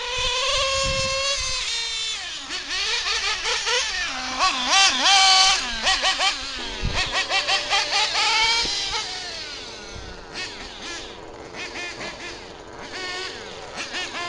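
Small nitro RC buggy engines screaming at high revs, their pitch rising and falling as the throttle is worked. There are rapid throttle blips, loudest about four to six seconds in.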